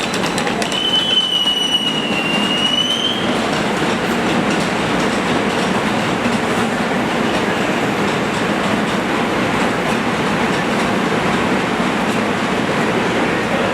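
A rail train running on the track, its wheels giving a high squeal for a few seconds near the start that rises slightly as it ends, then a steady rumble of wheels on rail.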